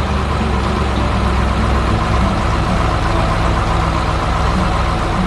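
Tow truck engine running steadily.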